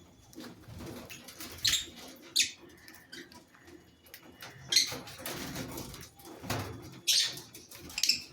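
Fisher's lovebirds, a handful of short, sharp chirps mixed with wing flapping and scuffling.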